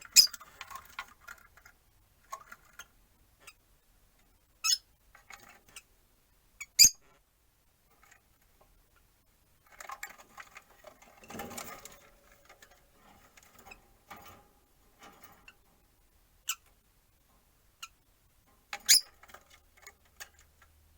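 Rosy-faced lovebirds making scattered sharp clicks and short chirps, a handful of separate sharp sounds with a softer, busier patch of chatter and rustling in the middle.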